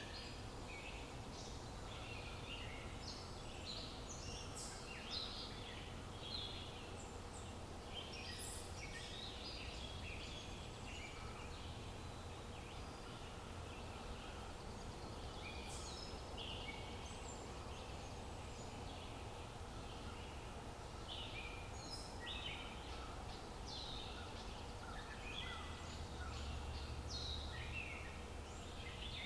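Many small birds chirping and calling, short notes overlapping throughout, over a steady outdoor background hiss and low rumble.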